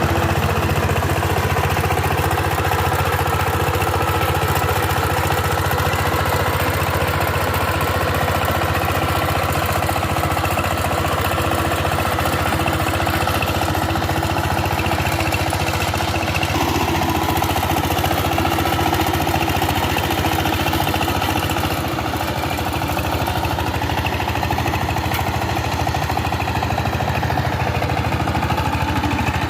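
Power tiller's diesel engine running steadily at idle.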